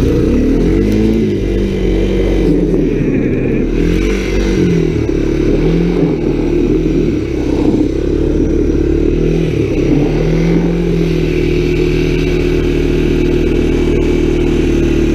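Small off-road motorbike engine revving up and easing off again and again, its pitch rising and falling several times, then running at a steadier pitch for the last few seconds.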